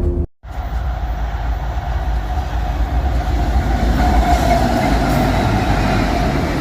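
Train running along the tracks: a steady low rumble with a mid-pitched tone that swells a few seconds in.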